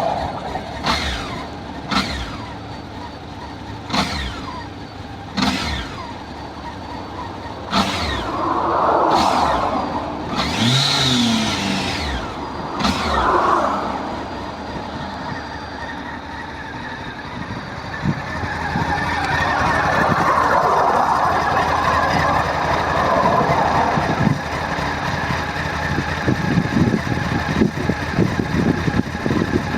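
Honda CB1100SF X-11 motorcycle engine running on the road, with one short rise in revs about eleven seconds in, and rushing noise rising and falling over it.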